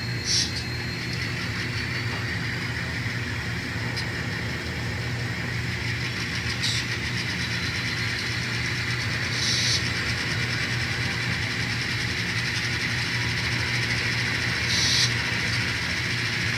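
Sound-decoder diesel locomotive sound from N scale model CSX engines: a steady diesel engine drone played through the models' small speakers, with a brief hiss four times.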